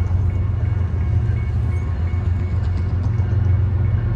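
A train passing close by, a loud steady low rumble.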